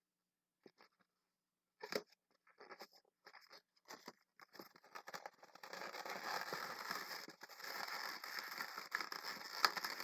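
Latex 260 twisting balloons being handled and worked by hand, with scattered clicks and scrapes at first. A continuous rubbing and crinkling sets in about halfway through.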